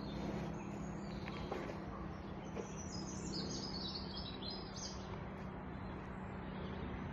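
Wild songbirds singing in spring woodland, with a quick run of short high chirps about halfway through, over a steady low outdoor background noise.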